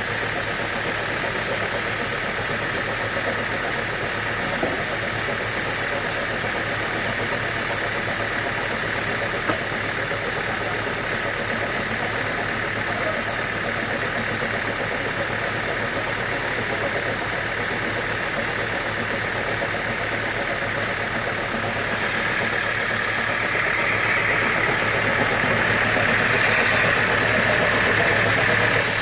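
Sawmill machinery running steadily with a constant low hum. About three-quarters of the way through it grows louder and higher.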